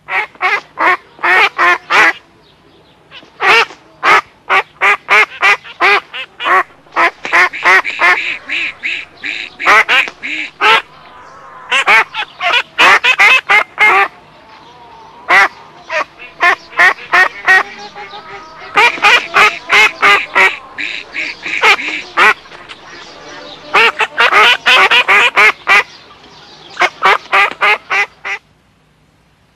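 Ducks quacking: loud runs of rapid quacks, several bursts in a row with short pauses between them.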